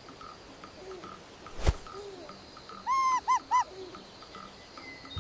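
Owl calls: a few soft, low hoots, then a quick run of three louder, higher calls about three seconds in. There is a faint, regular chirping underneath and a single sharp click just before the loud calls.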